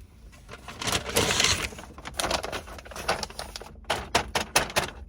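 Takeaway food packaging being handled: a rustle and crinkle, then a quick run of sharp clicks and taps.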